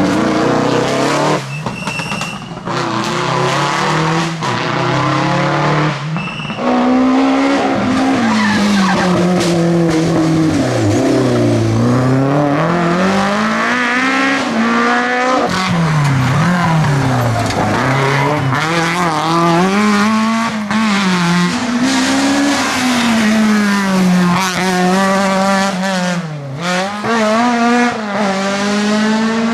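Rally car engine revving hard, its pitch repeatedly climbing and dropping as it runs up and down the gears, with tyres squealing and skidding on the stage.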